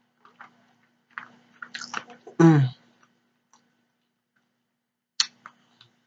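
Close-miked mouth chewing food with small wet clicks and smacks, a loud contented "mm" about two and a half seconds in, and a sharper smack near the end.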